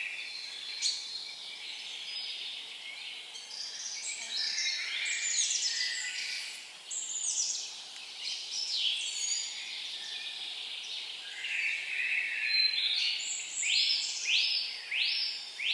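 Several wild songbirds singing and calling at once, many overlapping chirps and quick whistled sweeps. Near the end one bird repeats a rising note over and over, about one and a half a second.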